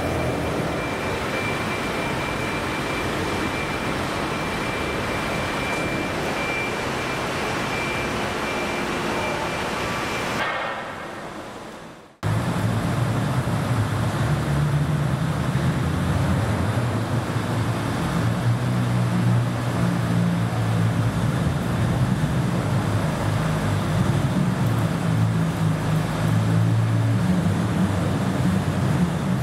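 Vehicle noise in two segments. First a steady din with a faint steady whine, fading out about ten seconds in. Then, after a cut, the louder low rumble of classic car engines running.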